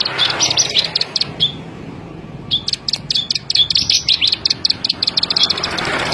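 A ciblek sawah (a small prinia) singing two quick bursts of sharp, clicking chirps, the second starting after a pause of about a second.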